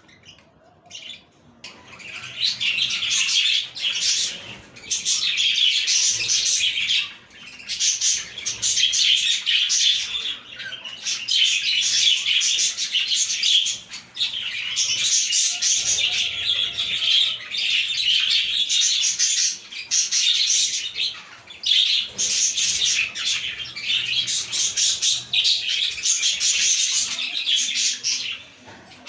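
A flock of budgerigars (budgies) chattering and warbling together, a dense, continuous twittering that comes in long stretches with brief pauses.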